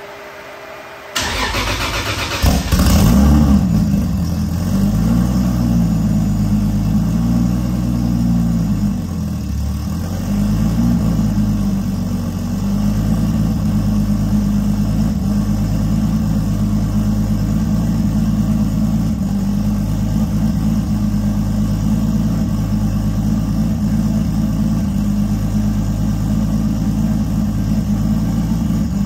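Toyota 2JZ straight-six cranking on the starter about a second in, catching and flaring up, then idling. The idle speed wavers for several seconds before it settles into a steady idle.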